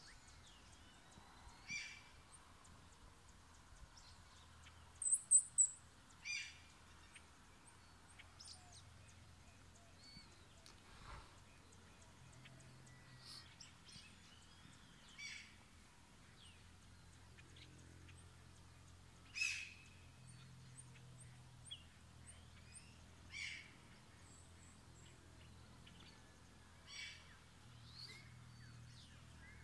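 Wild birds calling: scattered short calls every few seconds, with a quick run of high chirps about five seconds in, the loudest.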